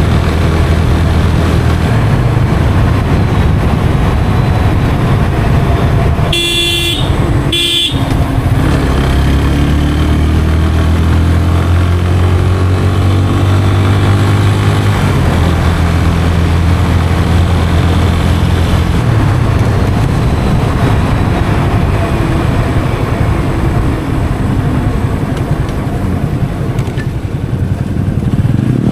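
Yamaha FZ 25's 249cc single-cylinder engine running under way, with a horn beeping twice in short succession about six to eight seconds in. After the horn the engine note drops for a few seconds, then holds steady.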